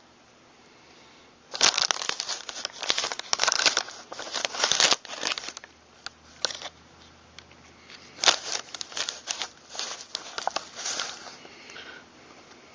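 Handling noise: dense rustling and crinkling with many small clicks, starting about a second and a half in and coming in bursts until near the end.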